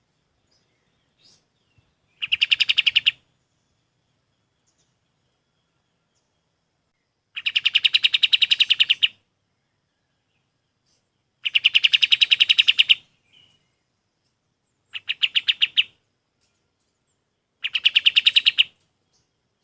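Kapas tembak songbird singing five fast, even trills of rapidly repeated notes, about a dozen notes a second. Each trill lasts a second or two, with a few seconds of silence between them.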